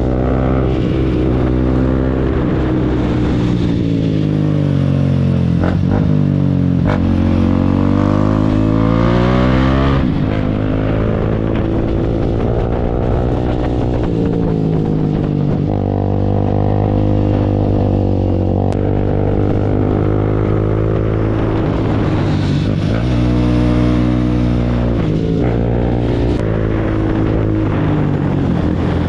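Motorcycle engines warming up, running steadily and revved again and again, the pitch climbing and falling back several times.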